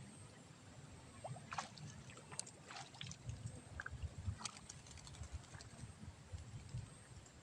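Scattered short, high bird calls, a few chirps clustered in the first half, over a faint low rumble.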